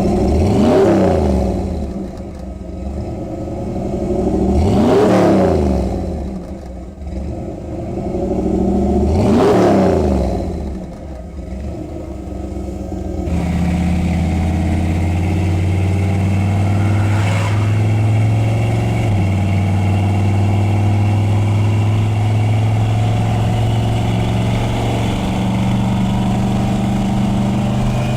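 Ford 302 V8 with full-length headers and dual exhaust, blipped three times, each rev rising and falling back, then settling to a steady idle.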